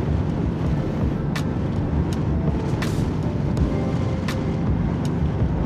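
Yamaha MT-07 parallel-twin engine running at a steady cruise on the road, with a continuous low rumble and wind noise. Short sharp ticks are heard every second or so.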